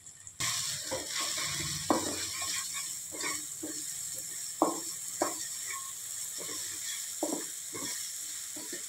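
Onion-tomato masala sizzling in a steel kadai while a wooden spatula stirs it, with irregular scrapes and knocks of the spatula against the pan. The sizzling starts suddenly about half a second in.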